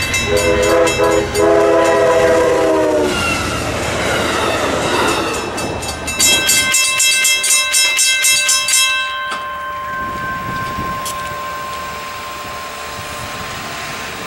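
Amtrak train passing: its horn sounds a multi-note chord for about three seconds near the start. Then comes a steady rush of the train going by, with the wheels clicking rhythmically over rail joints for a few seconds in the middle, before it eases off.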